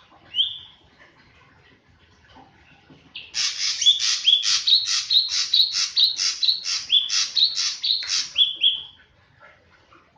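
A drongo calling: one short rising whistle, then about three seconds in a fast run of repeated harsh notes, each ending in a rising whistle, about three a second for some six seconds.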